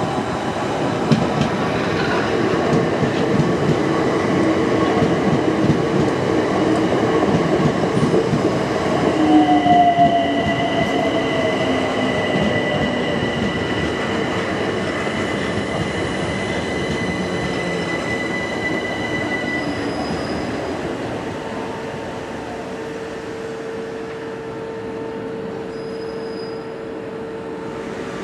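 Southeastern Class 376 Electrostar electric multiple unit running slowly past the platform as it comes in, its rumble loudest about ten seconds in. A steady high squeal sounds from about ten to twenty seconds in, with a short falling whine at its start, and a steady lower hum takes over near the end as the train slows.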